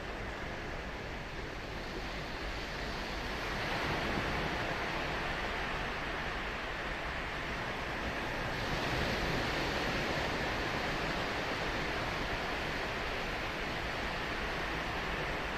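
Ocean surf breaking on a sandy beach: a steady wash of waves that swells as a wave breaks about four seconds in and again, brighter, at around eight and a half seconds.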